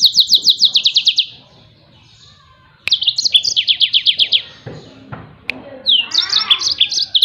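Yellow-fronted canary (burung mozambik) singing its 'tembakan' song: three fast trills of high, repeated down-slurred notes, about ten a second, each trill lasting about a second and a half and opened by a few gliding notes.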